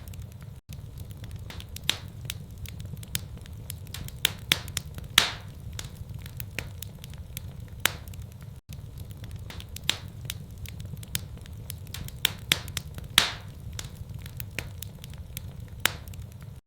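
Wood fire crackling in a fireplace: irregular sharp snaps and pops over a steady low rumble, with two louder pops trailing a brief hiss about five and thirteen seconds in.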